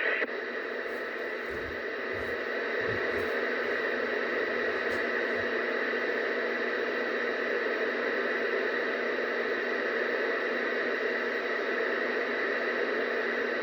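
Steady static hiss from a CB radio receiver with no station transmitting, its squelch open between transmissions. A few faint clicks come in the first few seconds.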